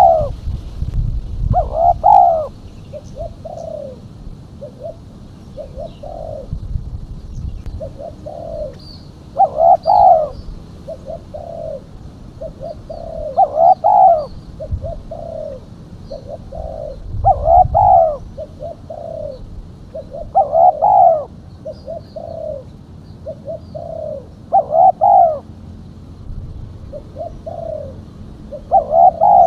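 Spotted dove (tekukur) cooing, given as the female's call used to lure doves. Phrases come about every three to four seconds, each a loud double coo followed by several softer coos.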